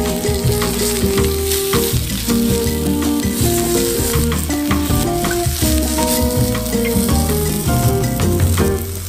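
Eggplant halves and zucchini slices sizzling steadily as they fry in oil in a frying pan, turned with tongs, under background music.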